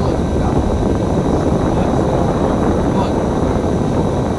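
Steady engine and road rumble inside a moving KMB bus, with voices mixed into the noise.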